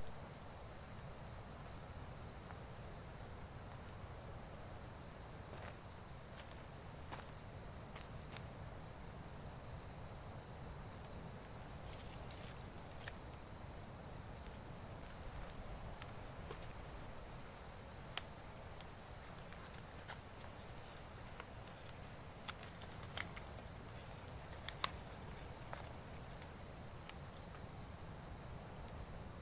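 Steady chorus of insects, a continuous high-pitched shrill drone, over a low steady background rumble, with scattered faint clicks and ticks.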